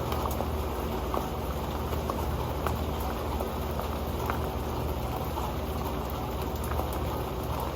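Steady rain falling on an old metal pan, with single drops ticking sharply on the metal over an even patter.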